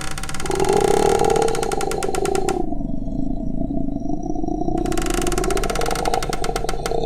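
Haunted-house horror sound effect: a low moaning drone that slowly rises and falls in pitch, with a harsh rattling crackle over it for the first two and a half seconds and again from about five seconds in.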